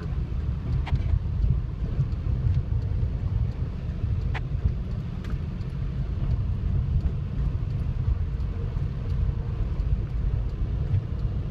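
Strong gusty wind buffeting the microphone, a loud, uneven low rumble with a few faint clicks.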